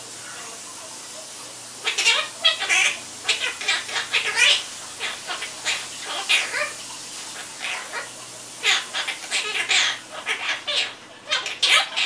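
Quaker parrot (monk parakeet) chattering: a quick, irregular run of short, high-pitched squawky calls that begins about two seconds in.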